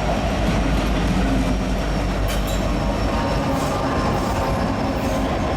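Freight train of empty ethanol tank cars rolling across an old railroad bridge: a steady, loud rumble of steel wheels on rail, with a few sharp clicks scattered through it.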